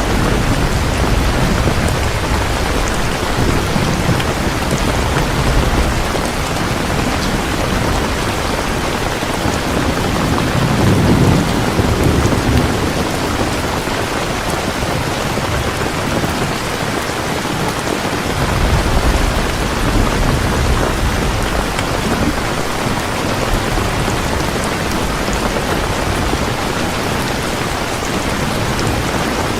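Steady, heavy rain, with low rolls of thunder swelling now and then; the loudest rumble comes about eleven seconds in.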